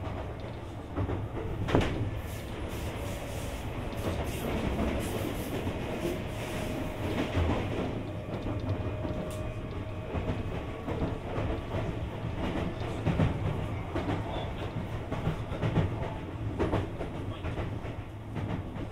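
Running sound heard inside a Sotetsu 20000 series electric train car at speed between stations: a steady rumble of wheels on rail, with a few sharp clacks over rail joints.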